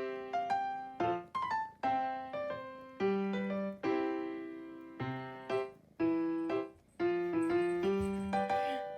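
Background music played on a piano-like keyboard: chords struck about once a second, each ringing and fading before the next.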